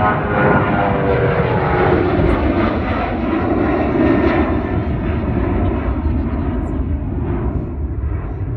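A loud engine passing by, its tone falling in the first two seconds or so, then a steady roar that slowly fades.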